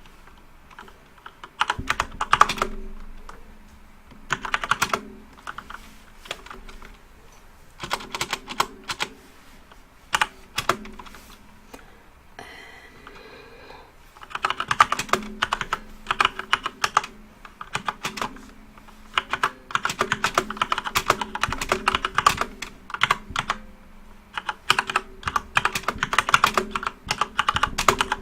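Typing on a backlit computer keyboard: quick runs of key clicks in short bursts with brief pauses, becoming longer and denser about halfway through.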